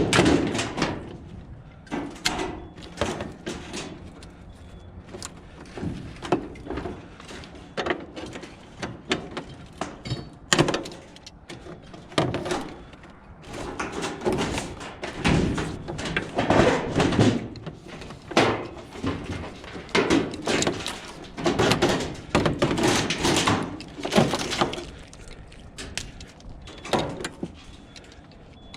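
Scrap metal being handled and tossed about: repeated bangs, clanks and thuds, coming thicker and louder about halfway through.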